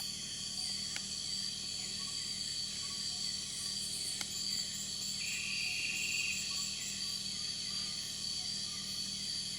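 Nocturnal rainforest insect chorus: crickets and other insects buzzing and chirping steadily at several high pitches. A brief pulsed trill stands out about five seconds in, and there are two faint clicks.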